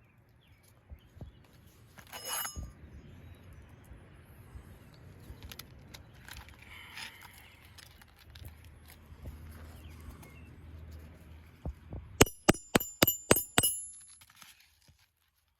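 Hammer ringing on metal during roof shingle work: a quick run of about seven sharp blows near the end, with a single ringing clink about two seconds in and faint handling noise between.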